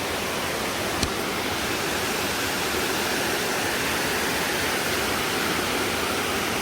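Waterfall rushing steadily, with one brief click about a second in.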